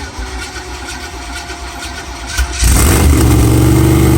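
Rat rod engine cranking on the starter with a hard start, then catching about two and a half seconds in and running loudly and steadily.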